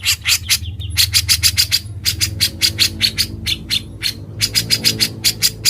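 Grey-cheeked bulbul (cucak jenggot) giving its fast, harsh chattering 'ngebren' call, about five or six notes a second in runs with short breaks, over a steady low hum.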